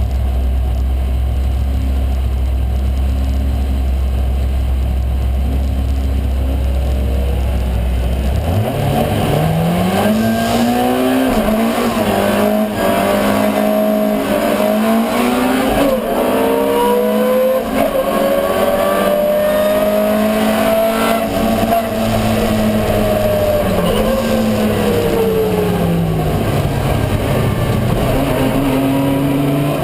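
Ford Escort 1300GT's 1300 cc four-cylinder race engine running with a steady low drone, then about eight seconds in accelerating hard, its pitch climbing in repeated sweeps broken by gear changes. It holds high revs for a few seconds, then its pitch falls away as it slows, and it settles to a steady lower note near the end.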